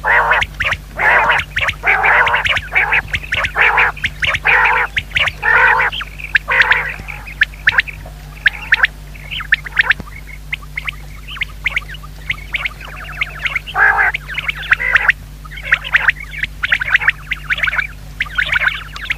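Common quail giving a rapid series of short, harsh calls, packed closely for the first several seconds and then coming in sparser, broken bursts.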